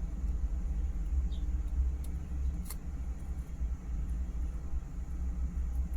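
Steady low rumble, with a single faint click about two and a half seconds in.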